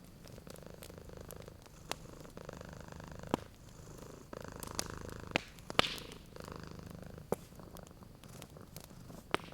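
A domestic cat purring, the purr swelling and fading in slow breath-long cycles. Sharp pops from a crackling wood fire come through it about six times.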